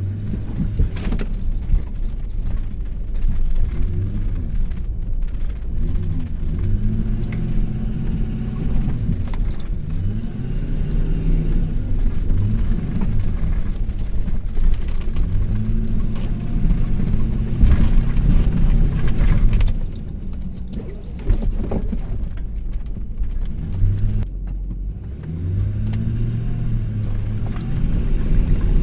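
Vehicle engine revving up and down over and over, its pitch rising and falling every few seconds, as the vehicle does donuts in snow.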